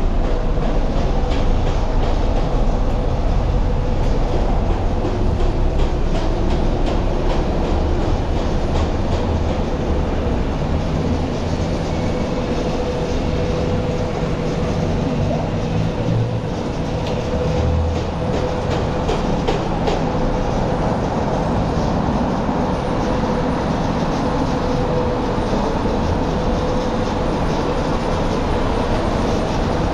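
Steady rumble of a vehicle running, with a constant mid-pitched whine and faint scattered clicks through the first two-thirds.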